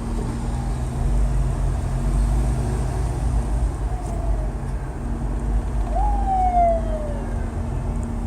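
Steady low rumble of street traffic, with an emergency-vehicle siren wailing. Its loudest sweep, about six seconds in, jumps up and then falls slowly in pitch over about a second.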